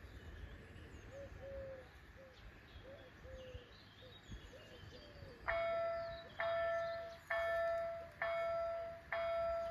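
Level-crossing warning bells start ringing about halfway in, a steady ding roughly once a second, each stroke fading before the next: the crossing's warning for an approaching train has begun. Birds chirp before the bells start.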